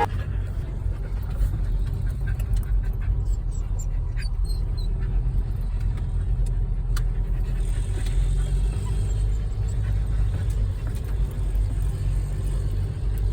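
Steady low rumble of a car on the move, with a few faint ticks and clicks over it.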